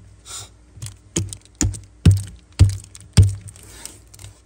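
A string of sharp clicks and knocks, about one every half second, from Zippo lighters being handled and set down.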